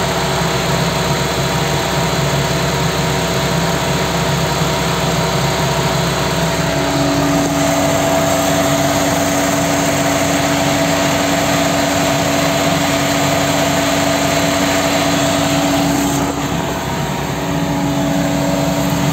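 Volkswagen Pointer engine idling steadily, with an added steady tone coming in about seven seconds in and a brief dip in level near the end.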